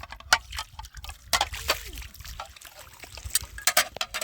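Water sloshing and splashing, with a run of sharp knocks and clicks throughout.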